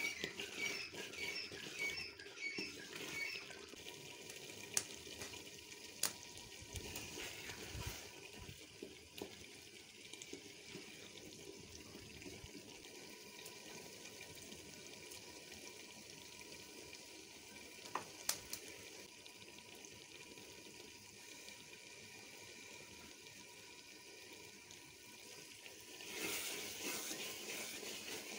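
Lobia dal frying in oil in a metal pot, hissing faintly as a wooden spoon stirs it, with a few sharp knocks of the spoon against the pot. A louder hiss rises near the end.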